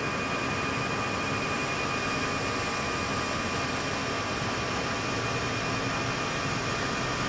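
Airbus A319 accelerating on its takeoff roll at flex takeoff thrust, heard inside the cockpit: a steady rush and rumble of jet engines and runway, with a few thin steady whining tones.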